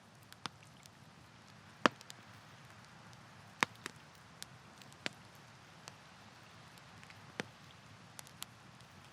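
Campfire burning: irregular sharp crackles and pops of burning wood over a soft steady hiss, the loudest pops about two and three and a half seconds in.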